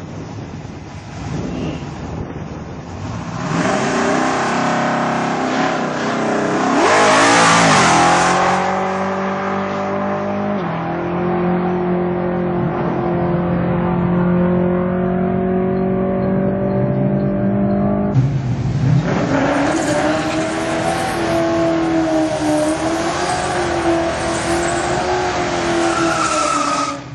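Fox-body Ford Mustang 5.0 V8 launching down a drag strip: the revs climb, step down at a gear change about ten seconds in, then hold as a steady drone while the car pulls away. About eighteen seconds in the sound switches abruptly to the engine held at high, wavering revs with tyres spinning in a burnout.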